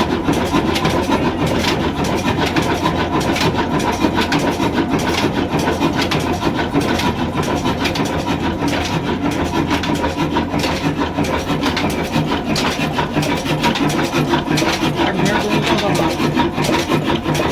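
Old Ruston Hornsby diesel engine running steadily.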